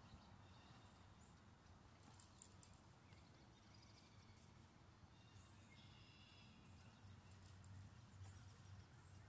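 Near silence, with faint distant bird calls: a few short high chirps and one brief call a little past the middle.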